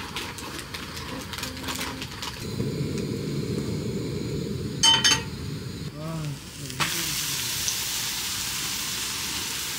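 Butter and garlic sizzling in a frying pan as bread toasts, with a ringing metal clink about five seconds in. The sizzle gets louder about seven seconds in.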